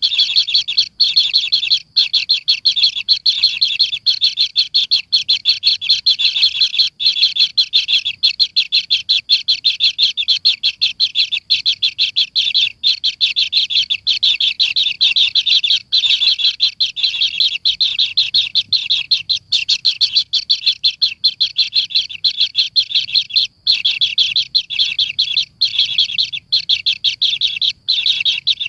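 A bird chirping rapidly and without pause, a dense, even run of short high-pitched chirps several times a second.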